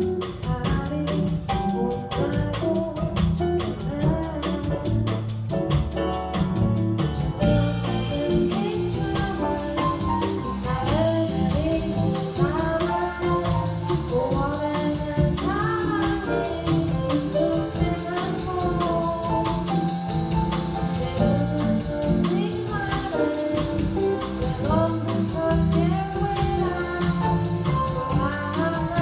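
Live band playing a jazz-tinged pop song: drum kit with a steady cymbal beat, bass and chords under a sung melody. The cymbals get brighter about a quarter of the way in.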